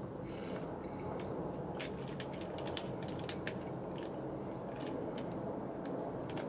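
Close-miked chewing of chewy noodles (jjolmyeon): scattered sharp wet clicks and smacks of the mouth over a steady low background noise.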